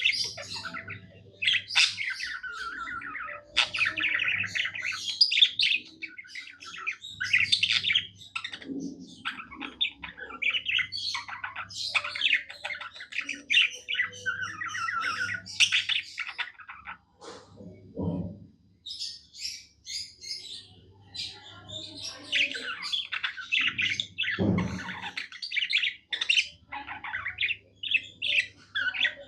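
Budgerigar warbling song: a near-continuous chatter of quick chirps, warbles and squawks with a couple of short pauses, and two soft thumps partway through.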